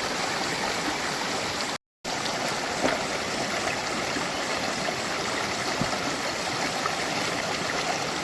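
Stream flowing: a steady, even rush of water that cuts out for a moment about two seconds in.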